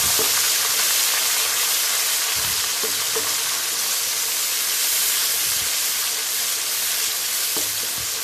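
Onions with ginger-garlic paste and green chilli paste sizzling in hot oil in a wok while being sautéed and stirred with a wooden spatula. The hiss is steady, easing off a little, with a few soft knocks of the spatula against the pan.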